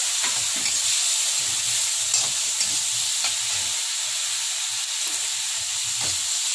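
Spiced tomato and capsicum masala sizzling steadily in a kadhai while it is stirred, with a metal spatula scraping against the pan every second or so.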